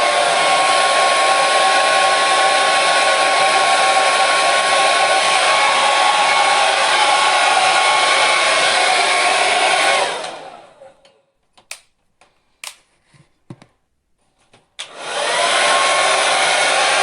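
Hair dryer running with a steady rush of air and a steady whine. About ten seconds in it cuts out and winds down. A few faint clicks follow, and about fifteen seconds in it starts again, its whine rising back up to pitch.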